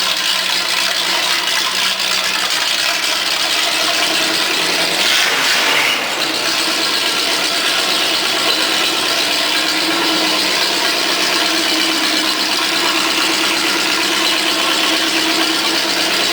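Oldsmobile 350 cubic-inch (5.7 l) V8 running steadily at idle through Flowmaster mufflers, rising briefly about five seconds in.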